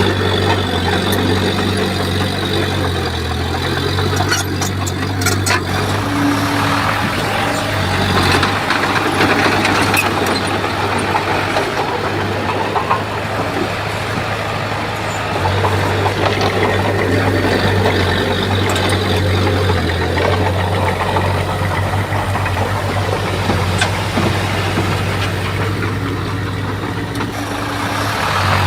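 Heavy diesel engine of a Komatsu bulldozer working, its running swelling and easing as the load changes, with a few sharp clanks about four to six seconds in.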